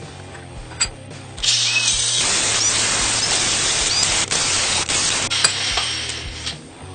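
A loud, steady hiss from a workshop tool at work, starting about a second and a half in and fading out near the end, over quiet background music.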